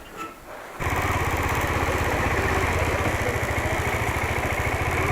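A vehicle engine starts suddenly about a second in and then idles steadily with an even low pulse.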